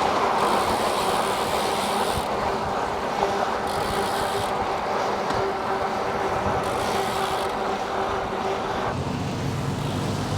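Riding noise from a moving e-bike: wind and tyre noise with a faint steady whine. About nine seconds in the whine stops and a low hum comes in.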